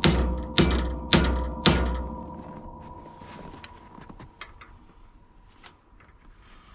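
Metal being struck four times, about half a second apart, each blow leaving a ringing tone that fades over the next couple of seconds; faint small clicks and knocks follow.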